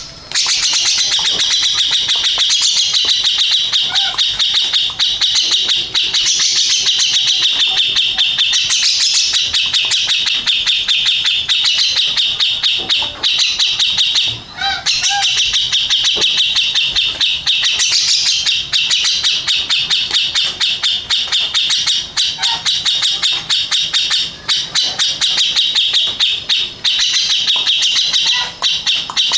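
Caged cucak jenggot (grey-cheeked bulbul) singing a loud, fast, unbroken stream of rapid high notes, pausing only briefly about halfway through.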